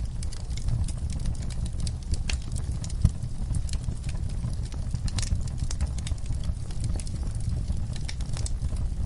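Fire crackling in a fireplace: a steady low rumble of flames under frequent sharp pops and crackles, with one louder pop about three seconds in.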